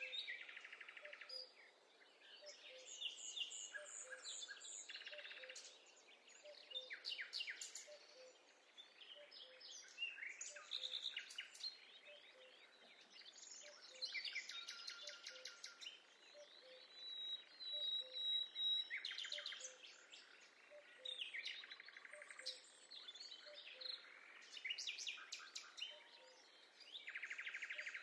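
Forest ambience of several wild birds singing: a mix of trills, rapid chirps and whistled phrases that come and go every few seconds, over a faint outdoor hiss. A soft low note repeats about once a second in the background.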